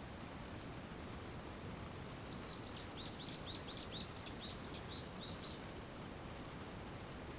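A songbird sings one quick phrase of about fifteen high chirping notes, lasting some three seconds, starting a little over two seconds in, over a steady hiss of rain.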